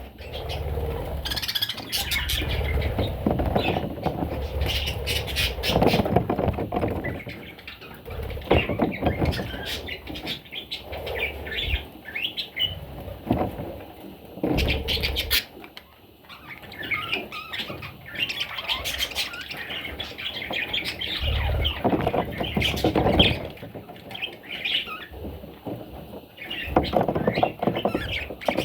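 Budgerigars chirping and squawking in quick, busy calls, over low rumbling and scattered knocks.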